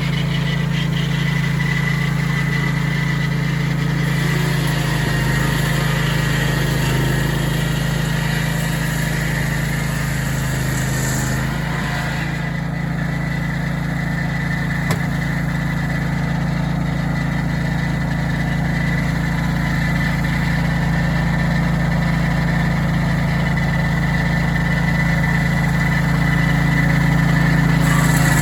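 Portable sawmill's engine running steadily at a constant pitch, with one short click about halfway through.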